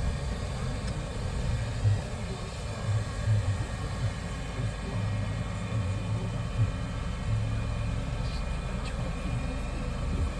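Low, steady rumble of a car moving slowly or idling, heard from inside the cabin, with a few brief bumps.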